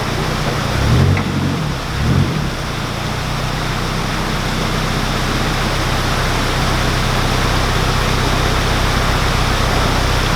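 A boat's diesel engine running steadily with a low, even drone, under a constant rushing noise. The drone settles in after about two seconds.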